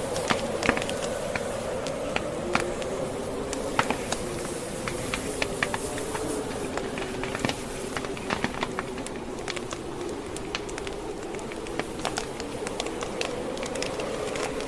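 Wood fire burning, crackling with many irregular sharp pops and snaps over a steady rushing hiss.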